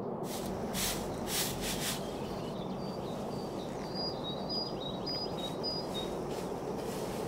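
A bird calls repeatedly in short high notes that alternate between two pitches, over a steady low background rumble. A few short hissing rustles come in the first two seconds.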